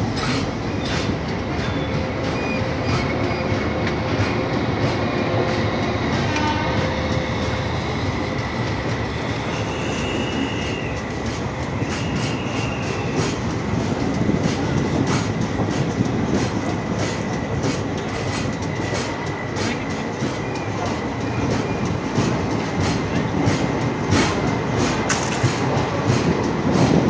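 A train running on the track, its wheels clacking over the rails with a steady rumble and a thin steady high whine.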